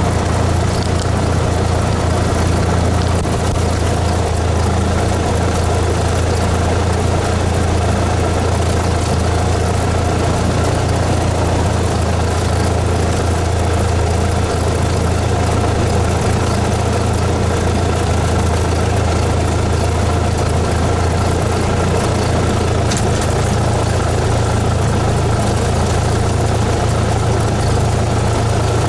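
Cessna 172S's four-cylinder Lycoming IO-360 engine and propeller running at a steady, unchanging speed.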